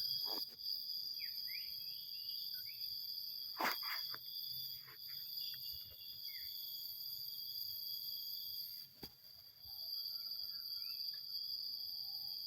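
Insects trilling steadily at a high pitch, with scattered short bird chirps and a sharp knock about four seconds in.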